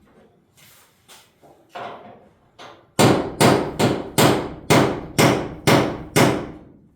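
Hammer blows on a steel punch against a fender bolt: a few light taps, then from about three seconds in eight hard, ringing strikes at about two a second.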